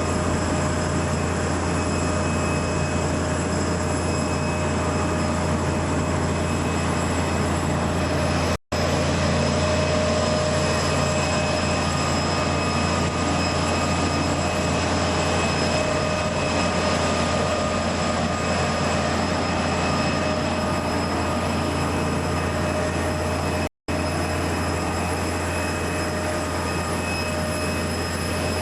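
Steady jet-aircraft noise on an airport apron: a constant low rumble with a high turbine whine over it. The sound cuts out briefly twice where the recording is edited.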